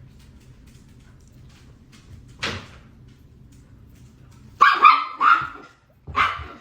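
A dog barking: one bark about two and a half seconds in, then a quick run of three barks and one more near the end.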